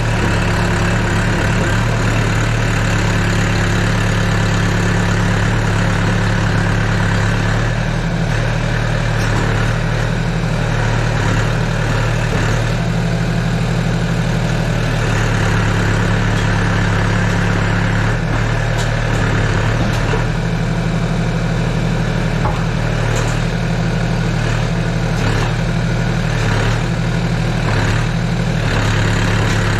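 Excavator's diesel engine running steadily at a constant speed, with a few light clicks and knocks in the second half.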